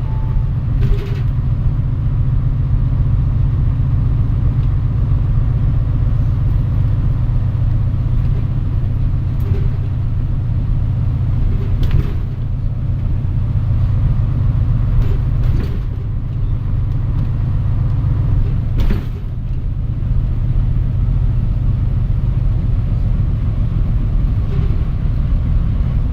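Cabin sound of a Mitsubishi Fuso Aerostar city bus running: a steady low engine and road rumble, with a few short sharp clicks or knocks about 1, 12, 15 and 19 seconds in.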